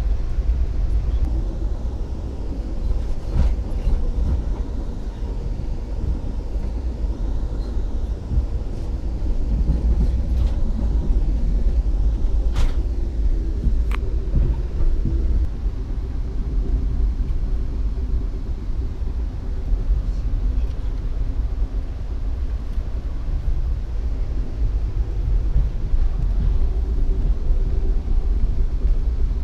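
Amtrak passenger train running at speed, heard from inside the coach: a steady low rumble of wheels on the rails, with a few sharp clicks.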